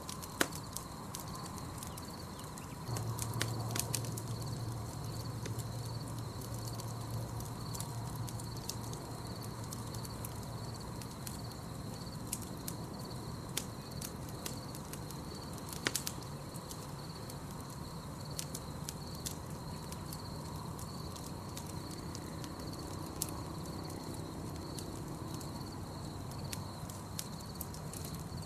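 Campfire crackling with scattered sharp pops over a steady, high, pulsing trill. A low hum comes in about three seconds in and fades out several seconds later.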